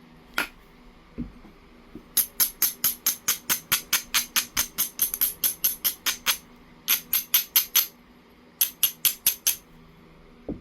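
Abrading stone rubbed rapidly back and forth along the edge of a heat-treated jasper preform, about five scratchy strokes a second in three runs with short pauses. This is the grinding that dulls and strengthens the edge to make striking platforms. It opens with a sharp click and a dull knock.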